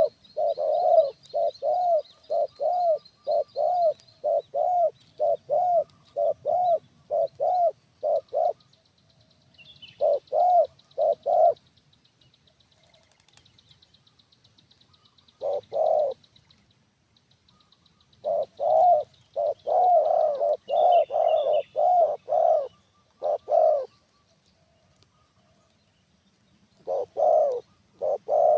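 A dove cooing in rapid runs of short coos, about two or three a second, in bursts broken by pauses of a few seconds. Small birds chirp faintly behind it, and a faint steady high whine runs underneath.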